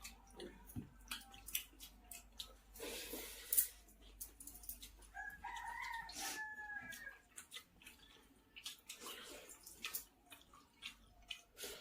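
A rooster crows once, about five seconds in, one call lasting about two seconds, over scattered small clicks and wet sounds of eating rice by hand.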